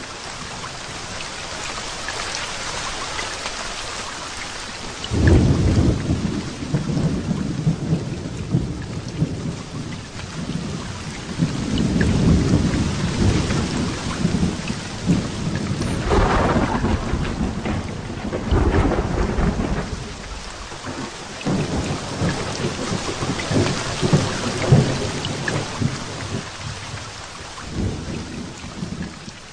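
Heavy rain falling steadily during a thunderstorm. A deep rumble of thunder breaks in suddenly about five seconds in, and further rolls of thunder swell and fade through the rest.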